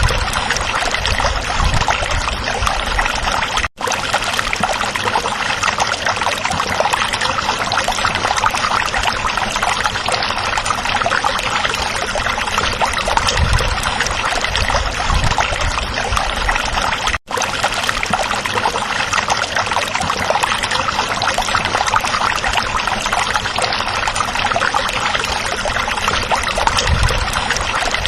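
A stream running, a steady trickling rush of water. It cuts out for an instant twice.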